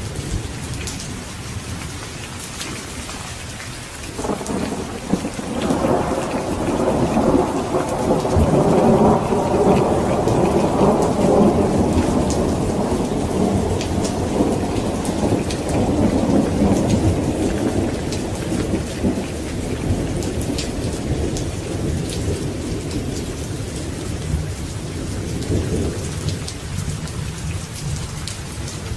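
Steady rain falling, with a long roll of thunder that builds about four seconds in, peaks near ten seconds and slowly rumbles away.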